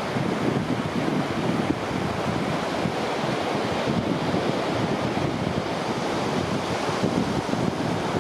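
Surf washing steadily onto a beach, with wind buffeting the microphone.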